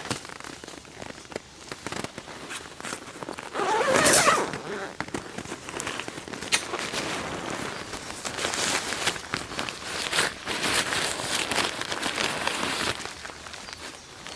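Tent fabric being unpacked and handled: nylon rustling and crinkling with scattered small clicks, and a louder rasping sweep about four seconds in.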